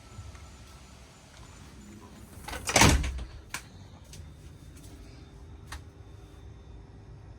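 A door sliding shut with one loud bang about three seconds in, followed by a few light clicks. After the clicks the outdoor hiss falls away.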